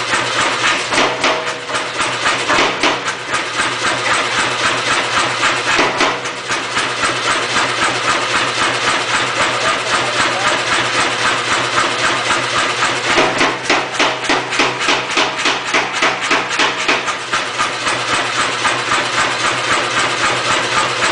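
Pneumatic power hammer striking in a fast, even run of blows, about four a second, driving a punch into a thick 4140 steel disk. The machine's motor hums steadily underneath.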